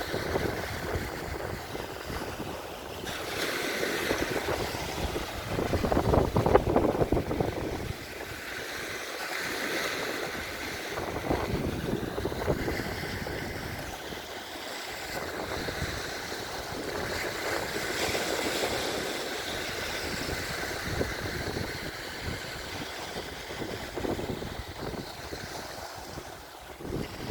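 Waves washing and wind buffeting the microphone, an uneven rushing noise that swells loudest about six seconds in.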